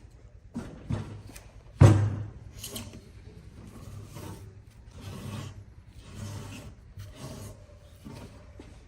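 Wood being worked with a hand tool: irregular scraping strokes about once a second, with a sharp knock about two seconds in.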